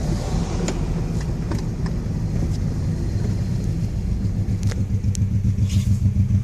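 Honda Shadow VT1100C V-twin motorcycle engine running at low revs, its pulsing beat growing stronger and more even over the last couple of seconds.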